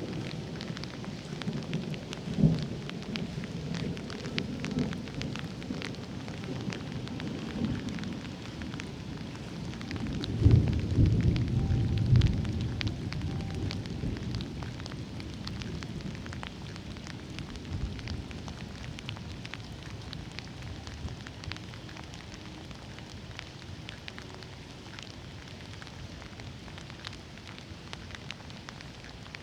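Steady rain falling, with many sharp drops and drips, during a thunderstorm. Thunder rumbles, fading over the first few seconds, swells into a louder low roll about ten to twelve seconds in, then dies away.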